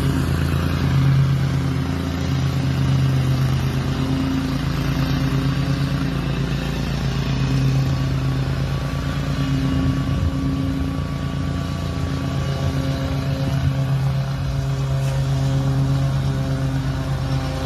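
Small gas engine of a grass-cutting machine running steadily at a constant speed.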